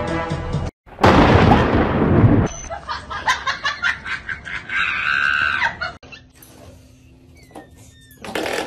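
A loud rush of heavy rain and wind for about a second and a half, then quieter rain with scattered knocks and a short high sound near the middle. After that only a low steady hum is left.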